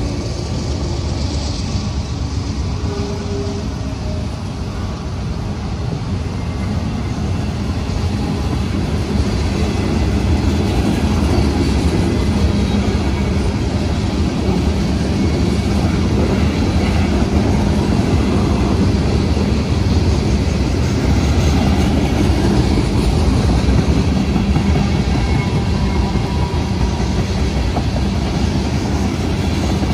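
Freight cars of a passing train rolling by at about 40 mph, steel wheels running over the rails in a steady, continuous clatter.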